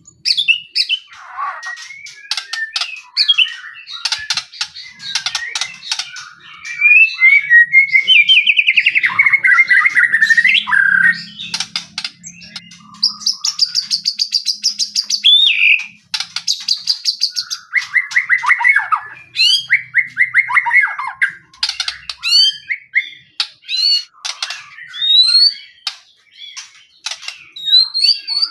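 White-rumped shama (murai batu) singing non-stop: a long, varied song of clear whistles, fast repeated chattering notes and trills, with a high buzzy trill about halfway through.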